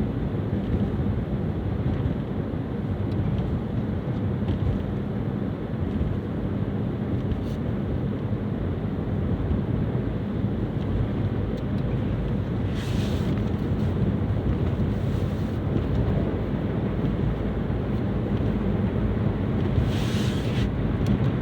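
Steady low road and engine rumble heard from inside a Nissan Juke driving slowly on snowy roads, with brief hissing swells near the middle and again near the end.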